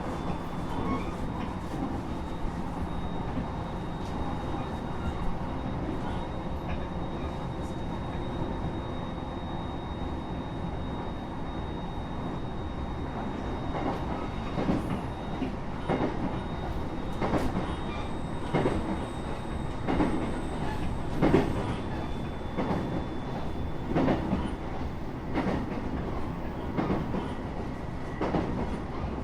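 Cabin of a local train running between stations: a steady running rumble with a faint high tone, and from about halfway through, irregular sharp clacks of the wheels over the rail joints.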